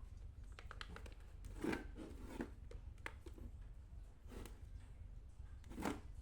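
Light clicks and rustles of small objects being handled, with two slightly louder rustles, over a steady low hum.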